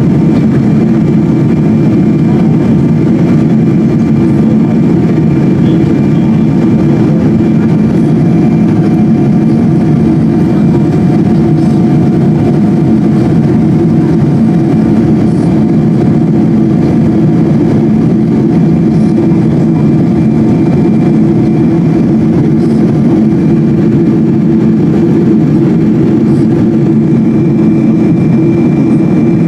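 A Boeing 777-200's jet engines running steadily, heard as a loud, even drone with a few faint steady tones above it.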